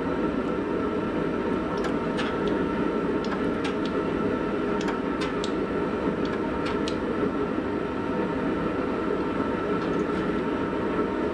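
Forge running with a steady, even roar, with a scattering of faint sharp metallic clicks between about two and seven seconds in.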